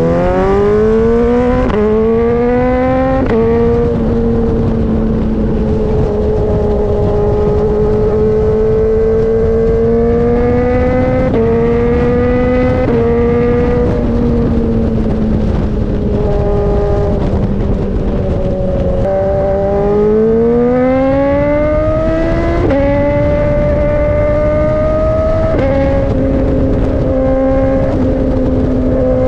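BMW S1000RR inline-four through an Austin Racing GP1R full Inconel exhaust under way. It revs up hard with quick upshifts in the first few seconds, the pitch dropping at each shift. It then holds fairly steady revs, with further gear changes and a long rev rise a little past the middle.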